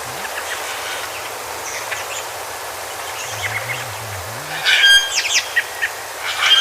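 Birds calling over a steady background hiss, with a louder burst of sharp, repeated calls about five seconds in.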